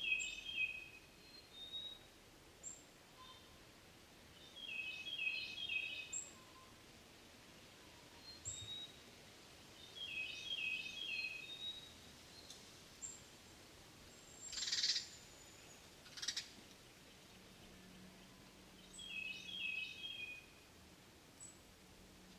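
A songbird repeating a short, quick trilled song phrase about every five seconds, with thin high call notes in between. A brief rustling burst comes about 15 seconds in, and a shorter one just after.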